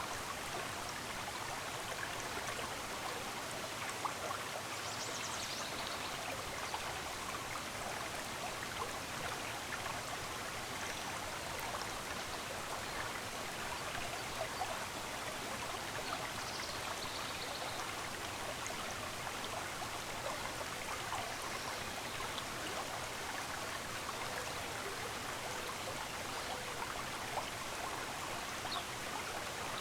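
Running water of a stream, a steady rush with fine splashing and trickling. A few faint, short bird chirps sound over it now and then.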